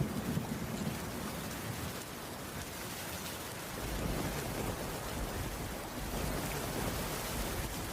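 Heavy rain falling steadily, with a low rumble that swells about four seconds in.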